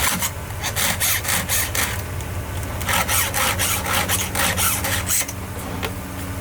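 A file being stroked across a chainsaw chain's cutters to sharpen them: quick scraping strokes, about three or four a second, in two runs with a pause of about a second between them.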